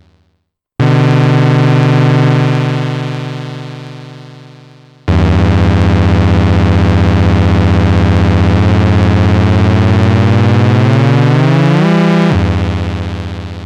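Arturia MiniBrute 2 analog synthesizer playing low, buzzy sustained notes: the first fades out over a few seconds, then a held note glides upward in pitch before a new note starts near the end.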